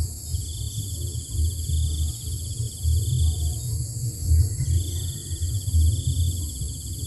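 Insects trilling in long bouts that stop and start, over a steady high insect chorus, with a loud, uneven low rumble underneath.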